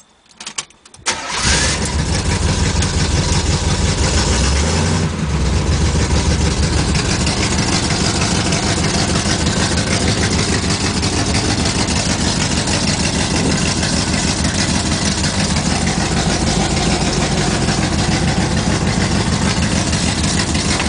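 Built 350 V8 in a 1970 Buick Skylark GS with headers, a racing cam and dual exhaust starting: a brief crank, it catches about a second in, is revved briefly around five seconds in, then settles into a steady, pulsing idle through the throaty dual exhaust.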